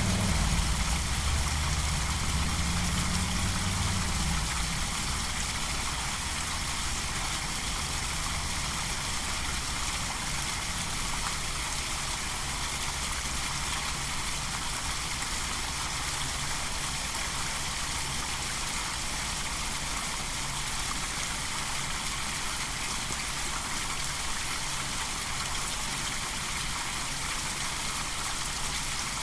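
A vehicle engine's low rumble fades away over the first few seconds, leaving a steady, even hiss of outdoor ambience.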